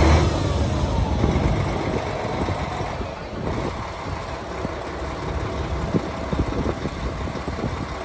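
Hyundai tractor unit's 12.3-litre, 440 hp six-cylinder diesel engine running. Its speed falls back from a rev over the first second or so, then it settles into a steady idle.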